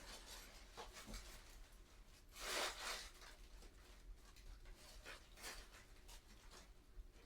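Faint rubbing and light clicks from handling things during kitchen cleaning, with one louder brief swish about two and a half seconds in.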